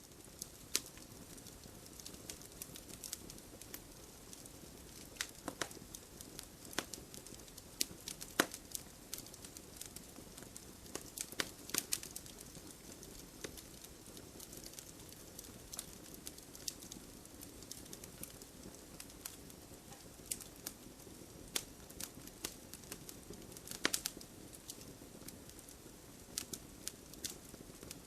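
Wood fire crackling: irregular sharp pops and snaps of burning logs over a low, steady hiss, with a few louder snaps scattered through.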